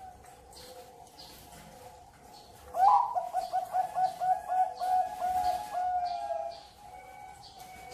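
Zebra dove (perkutut) singing: about three seconds in, a loud run of about a dozen quick cooing notes, about three a second, ending in a longer held note, with other doves cooing faintly behind it.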